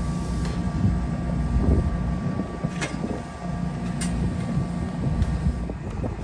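International tractor engine running steadily on a cold start, with a few sharp clicks and knocks about three and four seconds in.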